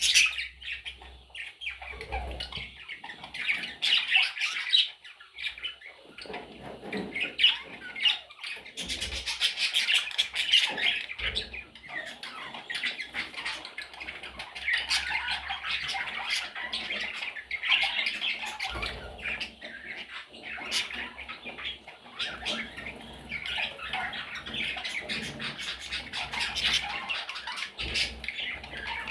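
Small parrots chattering and squawking together without pause, with many short, sharp calls overlapping.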